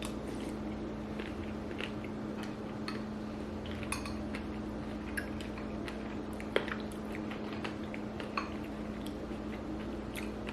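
Spoons clinking and scraping in bowls of berries and coconut water as two people start eating, with quiet chewing. Light, irregular clicks, one a little sharper about six and a half seconds in.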